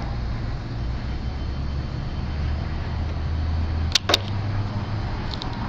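A steady low hum, with two sharp clicks close together about four seconds in.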